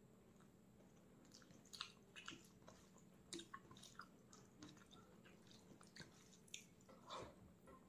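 Faint close-miked chewing: soft, wet mouth clicks and smacks at irregular intervals, the loudest a little after seven seconds in, over a low steady hum.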